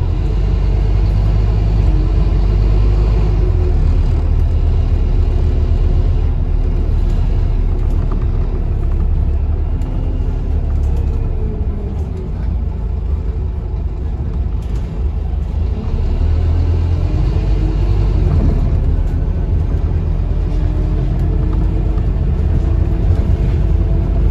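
Scania-engined ADL Enviro 400 double-decker bus heard from inside while on the move: a steady low engine and drivetrain rumble with a whine that falls as the bus eases off about halfway through and rises again as it picks up speed a few seconds later.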